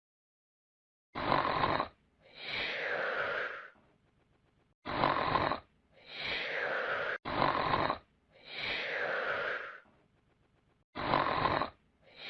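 Cartoon-style snoring sound effect: four cycles, each a short rasping snore on the in-breath followed by a longer whistling out-breath that falls in pitch.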